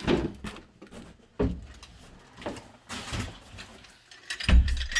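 Scattered knocks and handling noises as the doorknob and its packaging are moved about, with a heavier thump about four and a half seconds in.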